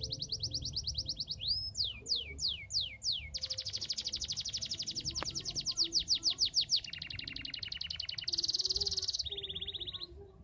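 Domestic canary singing vigorously: a continuous song of rapid trills that switch to a new phrase every second or two, with a run of about five downward-slurred whistles around two seconds in.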